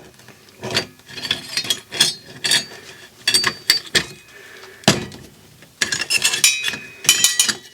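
Irregular metal clanks, clinks and knocks as a piece of aluminum is handled and clamped in place, some with a short metallic ring.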